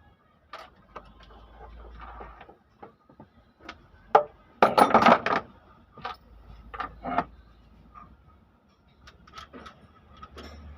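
Tools and metal parts being handled during an engine teardown: scattered clicks and knocks, with a loud rattling clatter about five seconds in and a few sharper clinks after it.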